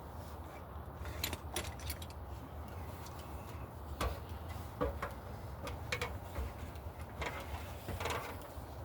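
Scattered light clicks and small metallic taps from hardware and wires being handled, over a steady low rumble.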